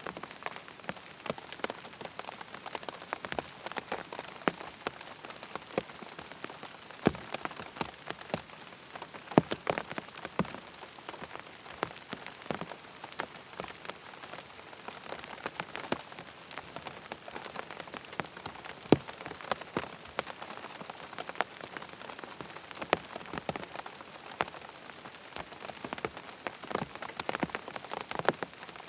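Steady rain falling, with many sharp, irregular drop taps standing out from the even patter.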